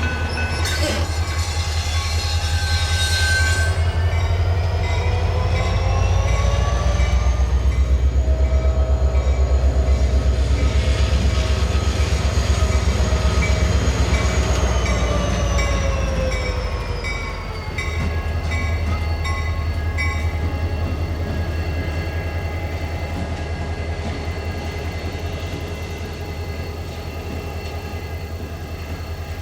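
Diesel-hauled train running past with a heavy, pulsing engine rumble. Over it, a pitched whine rises over a few seconds, holds, then falls away about halfway through.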